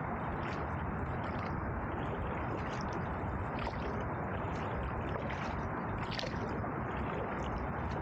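Canoe paddle strokes: the blade dipping and pulling through the water, with short gurgling splashes about once a second over a steady rushing noise.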